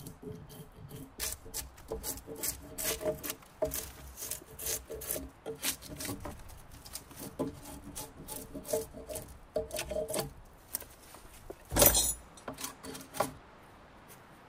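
Wood being worked by hand: irregular scraping and rubbing strokes of a tool on wood, with squeaky tones in some strokes and one louder sharp knock about twelve seconds in.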